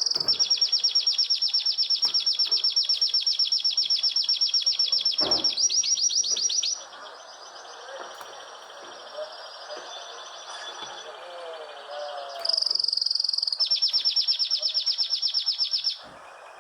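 A songbird singing long, rapid, high-pitched trills: one trill of about six and a half seconds, a softer warbling passage, then a second trill of about three seconds near the end.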